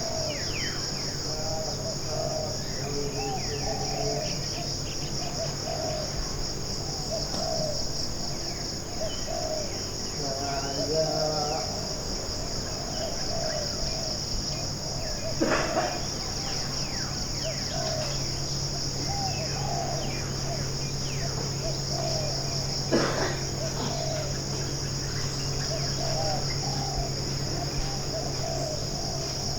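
Tropical forest ambience: a steady, high-pitched insect chorus, with many short, repeated chirping calls lower down. Two sharper, louder calls stand out, about halfway through and again later on.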